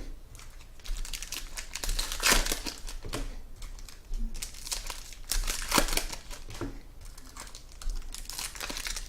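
Trading-card pack wrappers crinkling and cards being handled, in irregular rustles of varying loudness.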